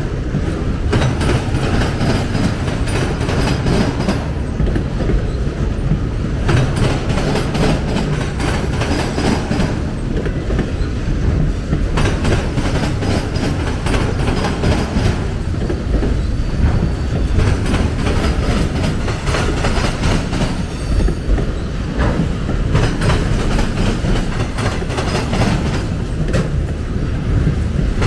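Autorack freight cars rolling slowly past close by: a steady low rumble of steel wheels on rail, with repeated clacks and clanks as the wheels cross the rail joints.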